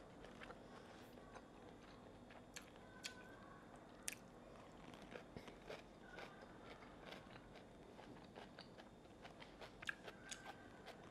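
Close-miked chewing: soft, irregular mouth clicks and smacks as a mouthful is chewed with the lips closed, all of it quiet.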